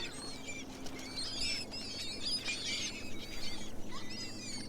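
A flock of seabirds calling over feeding fish: many short, high chirping calls overlapping one another, over a faint steady low hum.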